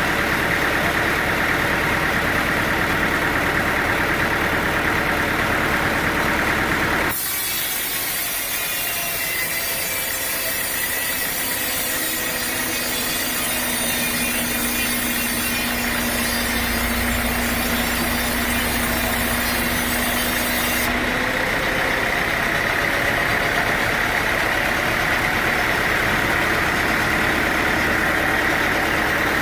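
Sawmill machinery running steadily. About seven seconds in, the sound switches abruptly to a saw cutting through teak wood, a bright hiss with a steady tone under it, for about fourteen seconds before the steady running sound returns.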